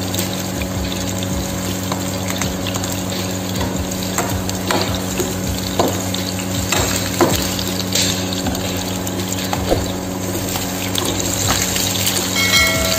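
Sliced garlic sizzling in hot oil in a nonstick frying pan, with a steady low hum underneath. From about four seconds in, a metal spatula scrapes and stirs it, with scattered clicks against the pan.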